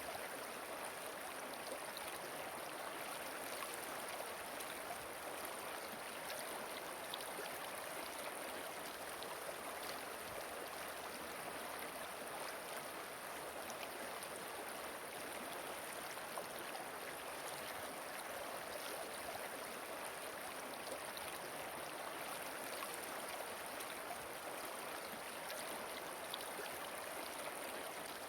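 Flowing river water running steadily: an even, unbroken rush.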